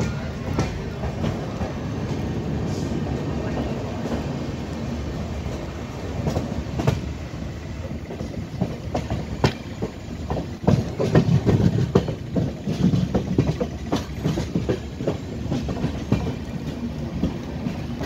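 Passenger train coach running along the track, heard from its open door: a steady rumble with wheels clacking over rail joints. The clacks come thicker and louder from about halfway through.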